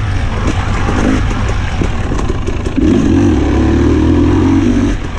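Husqvarna TE 300i two-stroke enduro engine under way: short throttle blips, then held on the throttle for about two seconds from about three seconds in, with scattered short knocks and clicks.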